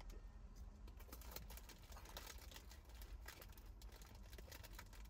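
Faint crunching of Monster Munch corn snacks being chewed: soft, irregular crackles over a low steady hum.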